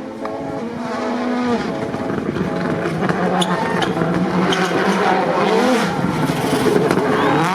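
A racing car's engine running hard, its pitch rising and falling as the revs change.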